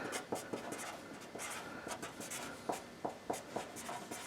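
Marker writing on the car's painted metal body: a series of short scratchy, squeaky strokes as a note is written out.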